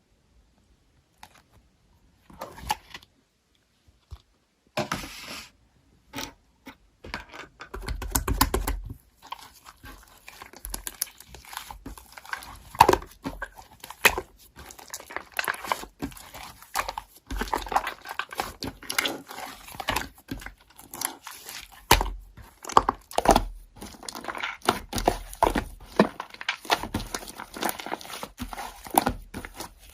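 Paper being handled: rustling, crinkling and tearing, with scattered sharp clicks and taps, starting after a couple of seconds of quiet and growing busier.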